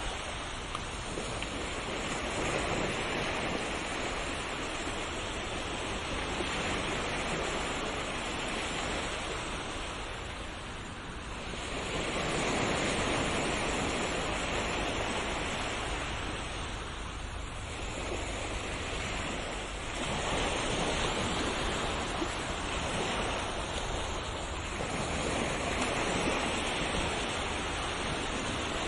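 Ocean waves breaking and washing in continuously, swelling and easing in slow surges every few seconds.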